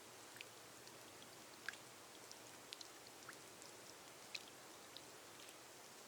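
Faint, steady rain on a glass roof: an even hiss with scattered single drops ticking sharply on the glass, a few standing out louder about two and four seconds in.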